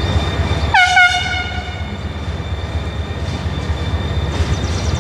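Low rumble of a freight train, with two quick locomotive horn toots about a second in.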